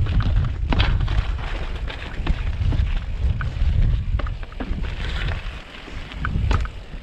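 Mountain bike rattling and knocking over a rough, rocky descent, with wind buffeting the microphone as a heavy, gusty rumble.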